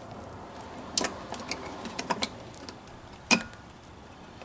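Scattered light clicks and metal taps from a spark plug wrench working the spark plug out of a generator engine, with one sharper clink about three seconds in.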